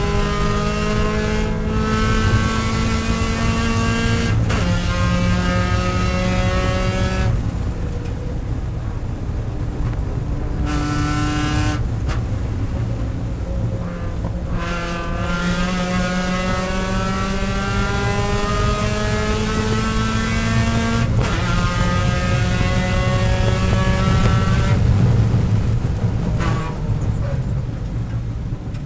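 Mazda Miata race car's four-cylinder engine heard from inside the cockpit at racing speed, its pitch climbing under hard acceleration and breaking off and dropping at each gear change or lift for braking, several times over.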